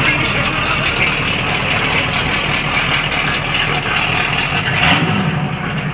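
A car engine running at idle, steady, with an abrupt change in the sound near the end.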